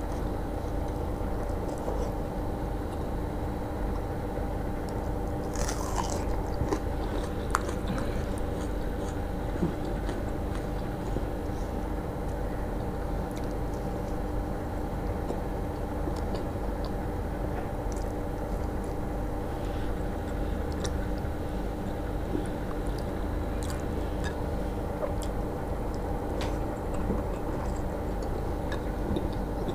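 Close-miked eating by hand: chewing and smacking of soft food such as wet rice and mashed potato, with wet squishy clicks and bites, including a bite into a fried potato chop. A steady hum runs underneath.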